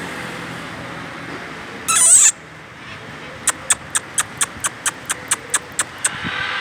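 A macaw gives one loud, harsh squawk about two seconds in, then a quick, even run of about a dozen sharp clicks follows at roughly five a second.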